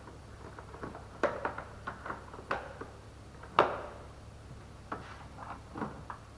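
Hand tools clicking and knocking at work on the engine, in scattered irregular strokes. A cluster comes about a second in, and the loudest, sharpest knock comes about three and a half seconds in and rings briefly.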